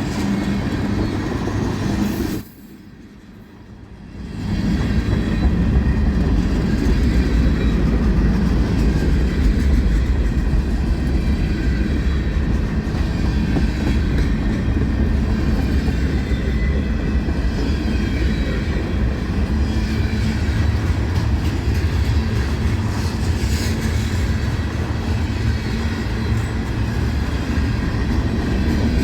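Train rolling on the rails, a steady rumble with clickety-clack and some wheel squeal. It drops away sharply for about two seconds a few seconds in, then comes back louder and runs on steadily.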